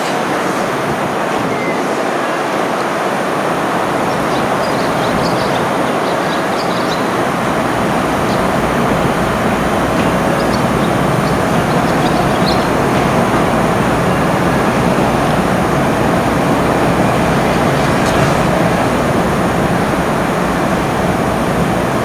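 A train running alongside the station platform: a loud, steady rumble and rush of wheels on rail, growing heavier in the low end a few seconds in.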